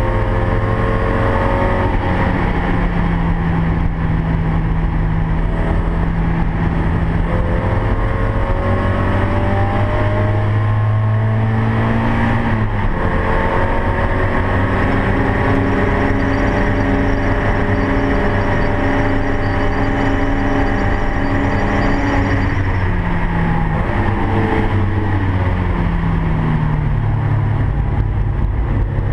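A Mazda MX-5's four-cylinder engine, heard from inside the cabin while it is driven hard on track. The revs climb and drop several times as the driver changes gear. Near the end the revs fall away, then build again, over steady road and wind noise.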